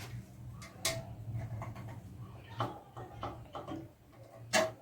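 Handling noise: scattered light knocks and clicks over a steady low hum, the loudest knock near the end.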